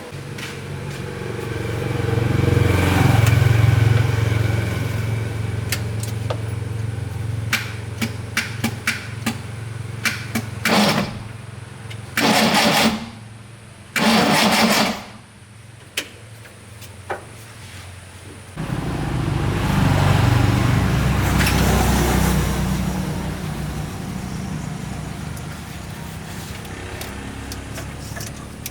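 A motor running steadily, then dying away about ten seconds in. A few clicks and two short hissing blasts follow, and then the motor starts abruptly and runs on.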